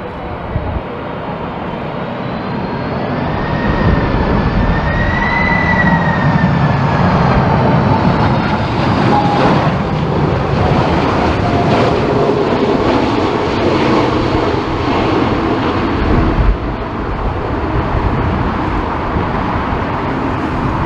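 Boeing 747 jet engines going by on a landing approach: a thick jet roar that builds over the first few seconds, with an engine whine that rises and falls in pitch. Gusty wind rumbles on the microphone underneath.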